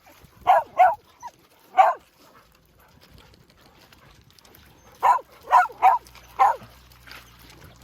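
Dog barking excitedly in two bouts: three sharp barks in the first two seconds, then, after a pause, four more in quick succession about five seconds in.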